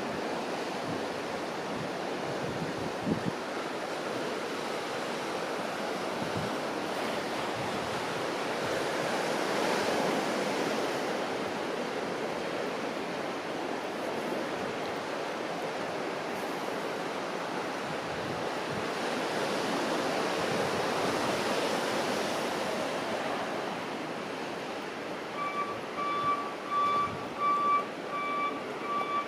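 Ocean surf washing on the shore, swelling twice as waves break. Near the end a truck's reversing alarm starts beeping in a steady repeated pattern.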